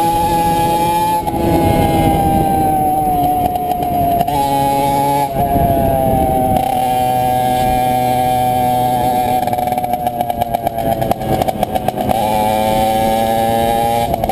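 CPI SM 50 supermoto's 50cc two-stroke engine running without its rear muffler while riding. Its note holds, drops in pitch several times, goes uneven and stuttering for a couple of seconds, then climbs again near the end.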